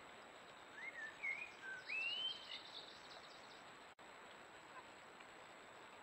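Wild birds calling: a few whistled notes that slide up and down, with a quick run of high chirps over them, about a second in, over a steady faint hiss.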